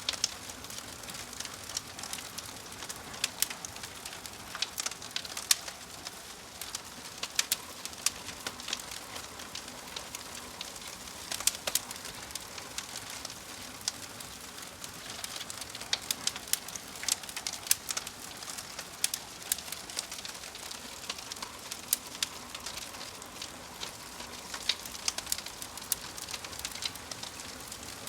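Wood fire crackling, with a steady hiss and many sharp, irregular pops and snaps. Birds call faintly in the background.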